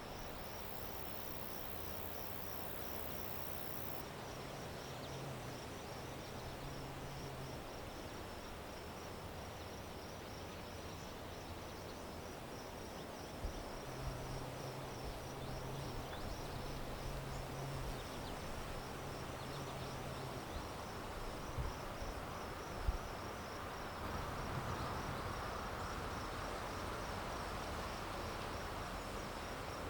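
Crickets chirping in a steady, rapid, even pulse over a wash of outdoor background noise, with a low hum that comes and goes and a few faint knocks in the middle.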